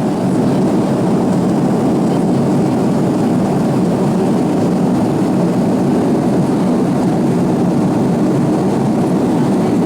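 Steady cabin noise of an Avro RJ-85 in flight: airflow and the hum of its four turbofan engines, unchanging throughout.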